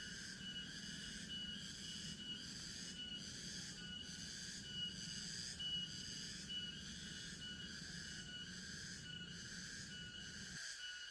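Forest insect chorus: steady high chirring in several layered tones, pulsing at about two beats a second. A low rumble underneath stops abruptly near the end.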